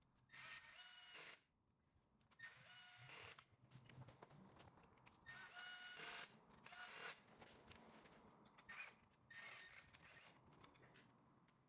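A cordless power driver runs in short bursts, about six times, with a whining motor. It is spinning in sump bolts with its torque set low so a cross-threaded bolt stalls it rather than stripping the threads.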